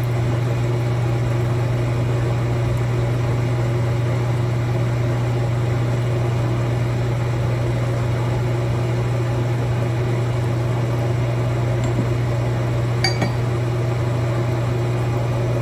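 A machine's motor running with a steady, unchanging hum, with one faint click about 13 seconds in.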